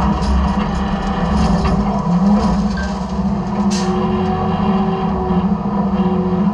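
Side-loader garbage truck's engine and hydraulics running steadily, a continuous low hum, with a faint whine in the middle and one short sharp noise about four seconds in.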